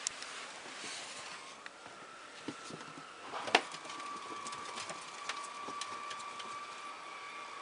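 A ferret rummaging about, making scattered light clicks and knocks with one sharper knock about three and a half seconds in, over a steady high hum.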